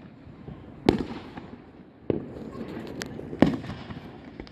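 Aerial fireworks bursting: three loud booms about a second apart, each trailing off in a fading rumble, with a few faint pops between them.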